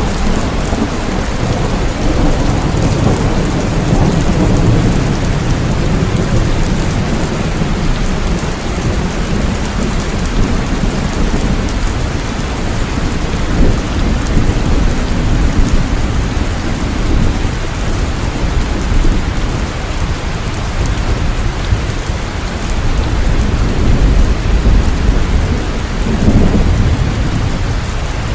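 Steady rain with low rolling thunder rumbling underneath, the rumble swelling early on and again near the end.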